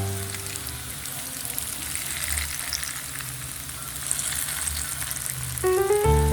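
Food sizzling in hot oil in a frying pan, a steady fine crackling hiss. Background music comes back near the end.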